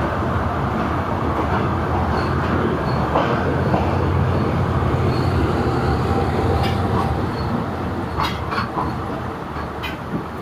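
Passenger train pulling out and running slowly, heard from aboard: a steady low rumble that eases slightly toward the end, with a few sharp clicks near the end.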